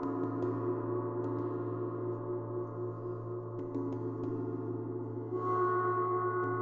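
Gong played in a continuous wash of sustained, overlapping ringing tones, with light mallet ticks scattered through it. It swells louder about five seconds in.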